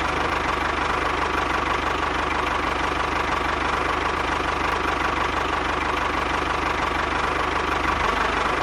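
Small engine of a DIY mini tractor running steadily just after starting, with a rapid, even firing beat and a steady whine, unchanging throughout.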